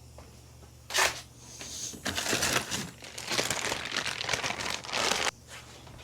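Crinkling and rustling handling noise for about three seconds, after a brief rustle about a second in; it stops suddenly.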